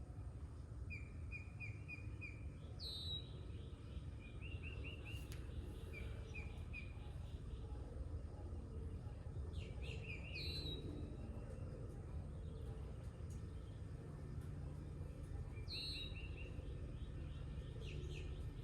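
Wild songbirds singing: runs of quick chirps, and a repeated phrase that starts with a high down-slurred note, heard three times. A steady low rumble of outdoor background noise lies underneath.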